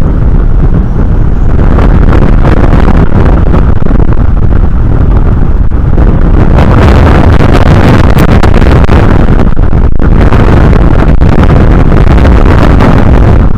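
Strong wind buffeting the eagle-cam microphone: a loud, constant low rumbling roar of wind noise that nearly overloads the recording.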